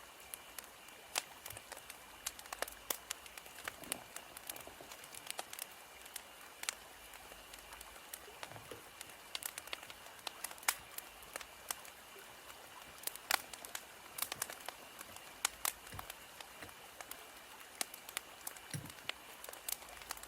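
Wood fire crackling, with irregular sharp pops and snaps over a faint steady hiss.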